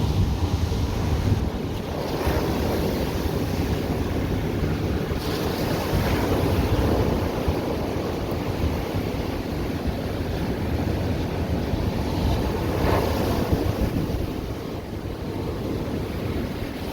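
Ocean surf on a beach, rising and falling as several waves come in, with wind rumbling on the microphone.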